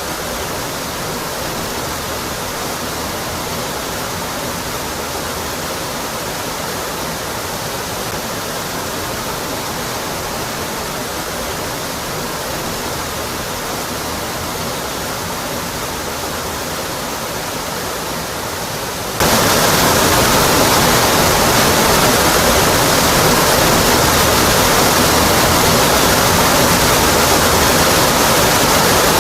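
Waterfall pouring steadily down a rock face in a dense, even rush. About two-thirds of the way through it abruptly becomes louder and brighter, as if cut to a closer recording.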